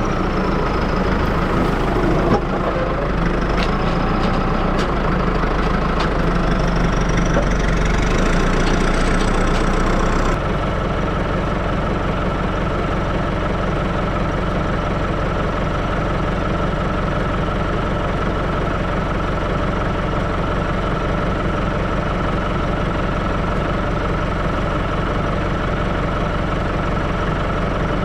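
Diesel engine of a New Holland tractor running steadily, with a few clicks and faint squeals over it for the first ten seconds. About ten seconds in, the sound turns abruptly duller and steadier.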